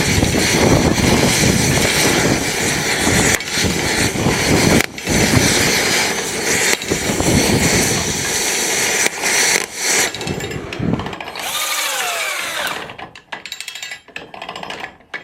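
A motorised power tool running loudly in long bursts with brief breaks. About three-quarters of the way through its motor spins down with a falling whine, and lighter clicks follow.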